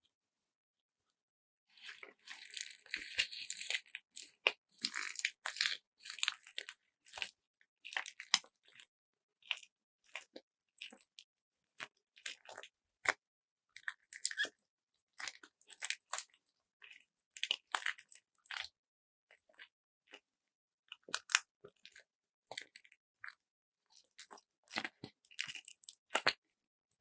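Hands squeezing and kneading a handmade squeeze bag filled with glitter bead slime, giving irregular crunchy crackles and squishes. It starts about two seconds in, densest for the first couple of seconds, then continues in uneven clusters.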